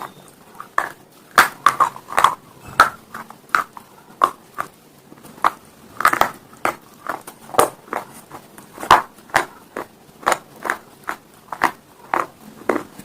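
Hard, brittle slate-stone pieces being bitten and chewed. It makes sharp, irregular crunches at about two a second, some loud and some faint.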